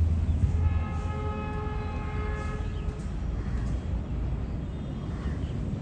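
Goods train rolling away over the track with a steady low rumble. About a second in, a train horn with several tones sounds once for about two seconds.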